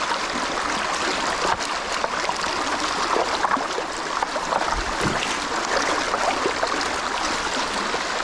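Clear mountain stream flowing steadily, with scattered small splashes and knocks of a hand net being worked through the water among the stones.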